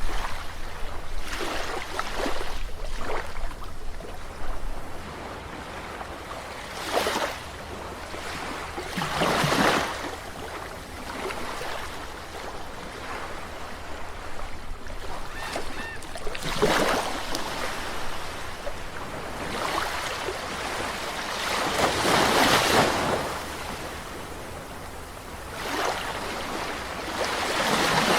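Calm sea waves washing onto a shore, each wave a hiss of surf that swells and fades, coming every few seconds at uneven spacing; the fullest wash comes about two-thirds of the way through.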